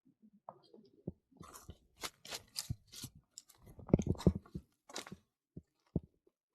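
Footsteps crunching on the forest trail, an irregular run of steps, loudest about four seconds in.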